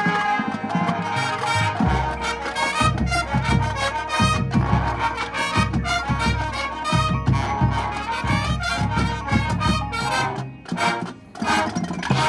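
Marching show band playing brass and percussion together: sustained trumpet and trombone chords, then heavy bass-drum strokes joining in about two seconds in. Near the end the music breaks into a few short, loud hits with brief gaps between them.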